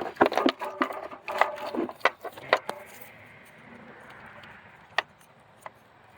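Wires and plastic connectors of a car's engine wiring harness being handled and fitted: a busy run of clicks and knocks for the first few seconds, then a soft rustle and two single clicks.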